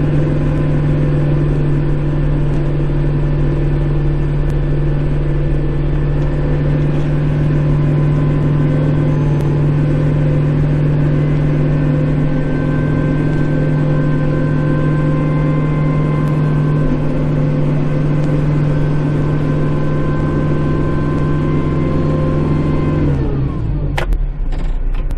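Kubota Grand L5740 tractor's diesel engine running steadily at high revs, heard from inside the cab; near the end the revs drop away quickly.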